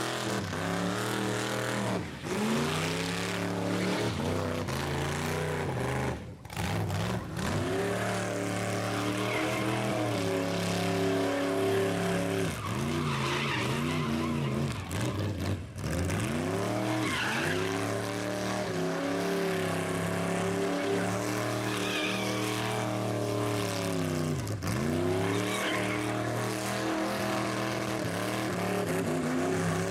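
Rat rod engine held at high revs during a burnout, with tires squealing. The revs drop and climb back several times.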